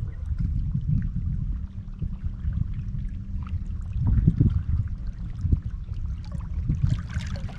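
Outdoor noise on a fishing boat: a low, uneven rumble of wind on the microphone with water sounds, a faint steady hum joining about a second and a half in, and a louder gust about four seconds in.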